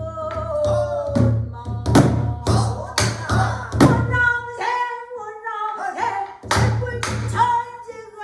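Pansori singing: one voice holding long notes that bend and waver, accompanied by sharp, irregular strikes of a buk barrel drum.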